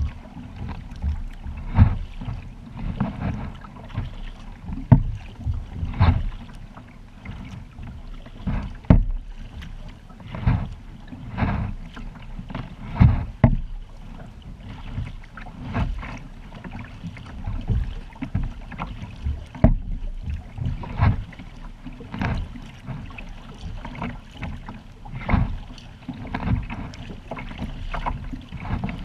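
Water splashing and slapping around a kayak as it is paddled, in irregular strokes about once a second, over a low steady rumble of wind on the microphone.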